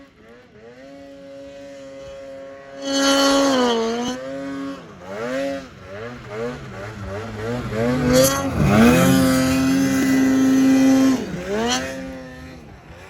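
Snowmobile engine revving, its pitch rising and falling again and again, with loud surges about three seconds in and from about eight to eleven seconds.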